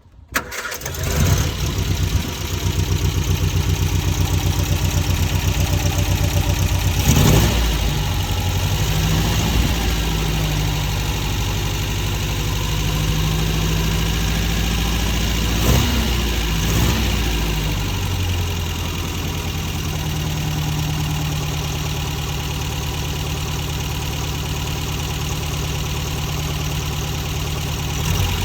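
1959 MG MGA's four-cylinder engine starting, then running with two short blips of the throttle, once about seven seconds in and once about sixteen seconds in, before settling into a steady idle.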